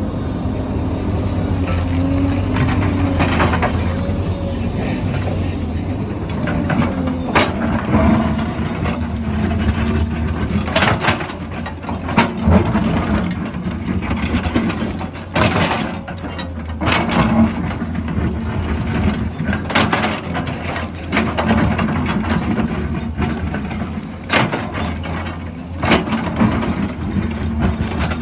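Excavator's diesel engine running steadily under load, with repeated sharp knocks and clatter of digging in rock and soil from about seven seconds in.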